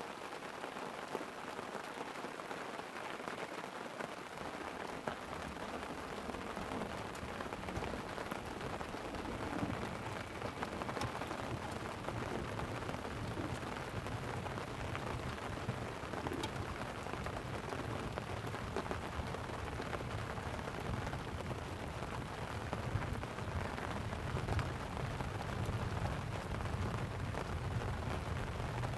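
Light rain pattering on a tent, many small drop ticks over a steady hiss. A low rumble of distant thunder sets in about five seconds in and grows toward the end.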